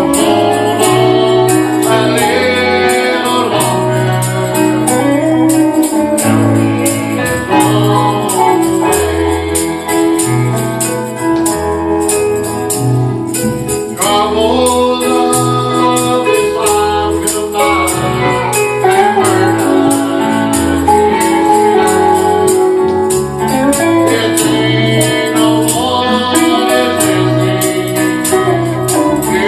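Live gospel music with a steady beat: a bass line and keyboard chords, a tambourine jingling in time, and singing.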